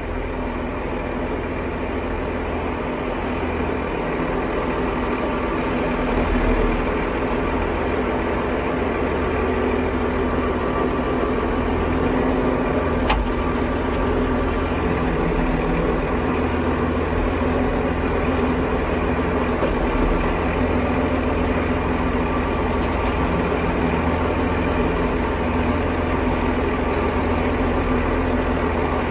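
Tractor engine running steadily while the tractor is rolled back and forth to work a dual wheel loose from its rim hook, with one sharp click about halfway through.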